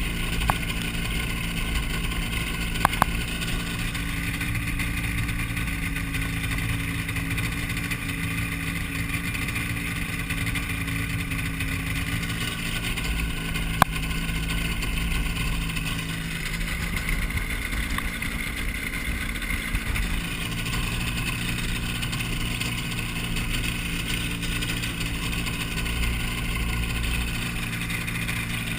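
Hy-Tek Hurricane ultralight's engine running steadily, a continuous drone with a noisy rush over it. A few short sharp clicks stand out over the engine, two close together about three seconds in and one about halfway through.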